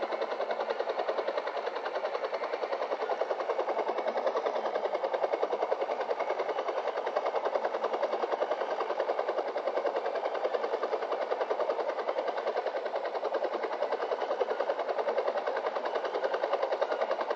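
Helicopter rotor chopping with a steady, rapid pulse.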